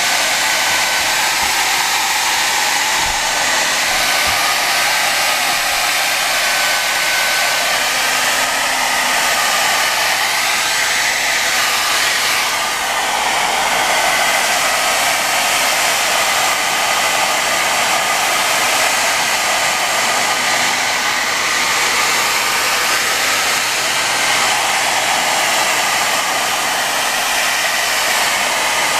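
Hair dryer running steadily, blowing on a border collie's coat.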